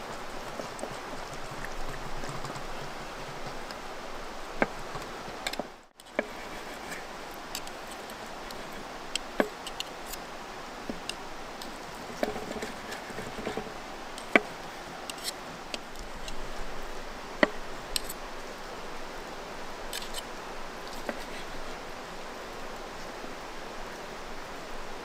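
Wood campfire crackling, with sparse sharp pops and snaps over a steady rushing of flowing stream water. The sound cuts out for a moment about six seconds in.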